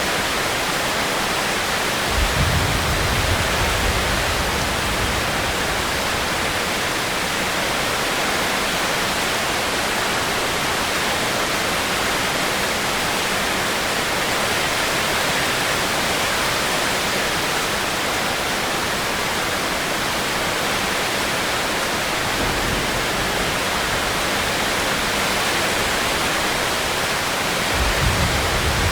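Steady heavy rain, an even hiss. A brief low rumble comes about two seconds in, and again near the end.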